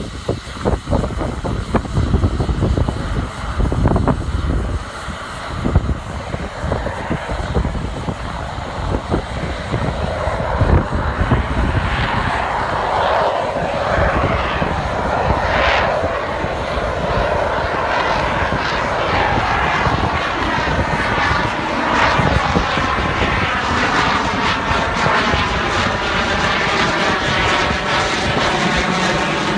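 F/A-18 jet's twin engines running as it flies slowly past at low altitude, a continuous roar that swells from about twelve seconds in and takes on a sweeping, phasing quality as it passes. Wind gusts on the microphone in the first few seconds.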